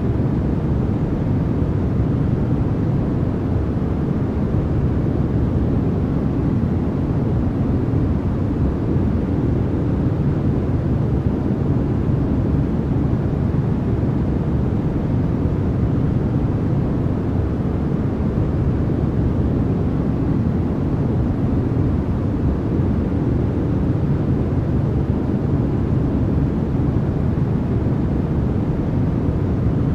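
Continuous white noise for sleep: an unchanging, even hiss weighted toward the low end, with no breaks or variation.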